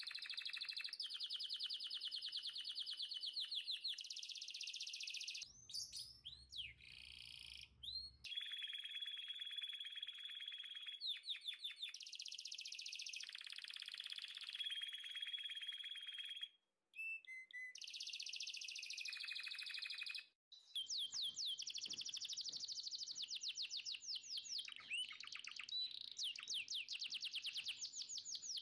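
Songbirds singing: fast, high trills and chirps, one phrase after another, broken by two short silences after the middle.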